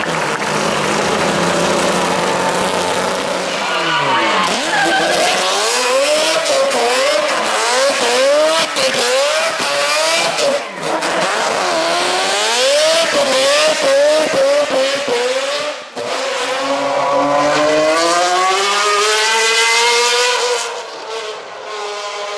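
Racing car engine at high revs, its pitch rising and falling over and over as the throttle is worked, then climbing steadily near the end as it accelerates hard.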